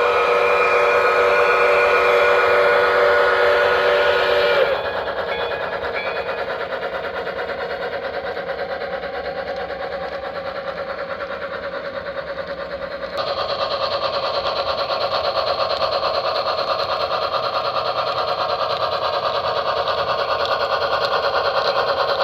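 Model steam locomotive's sound system blowing a multi-tone steam whistle held for about four and a half seconds, then a steady rapid chuffing that gets louder about two-thirds of the way through.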